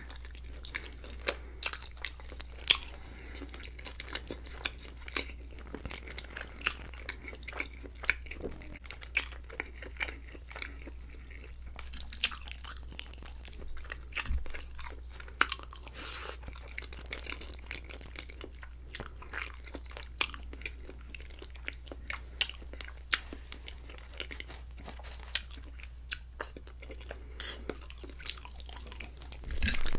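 Close-miked chewing of creamy chicken and shrimp Alfredo pasta: many irregular sharp mouth clicks and smacks, over a steady low hum.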